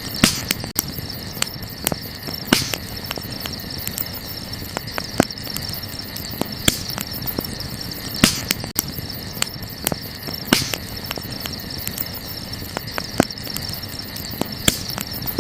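Wood campfire crackling with frequent sharp pops, the loudest every two seconds or so. Underneath runs a steady high chirring of crickets.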